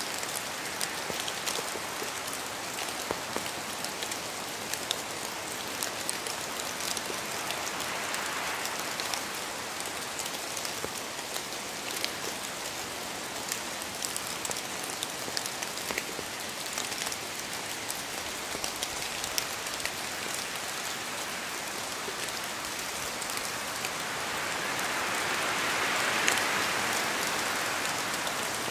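Steady rain falling, with many separate drops ticking through an even hiss; the rain swells louder near the end.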